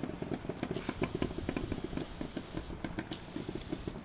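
Distant fireworks display: a fast, dense run of low booms and crackling pops.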